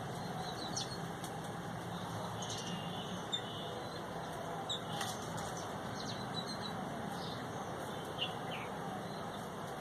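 Small birds giving short, scattered chirps and calls, many separate high notes, over a steady low background hum.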